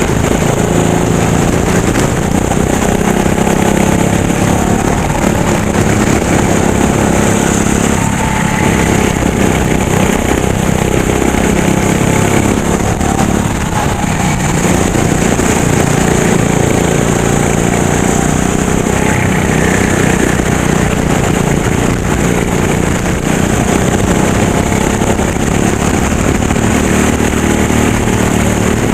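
Racing kart engine running hard, its pitch rising and falling repeatedly as the throttle is worked through corners and straights.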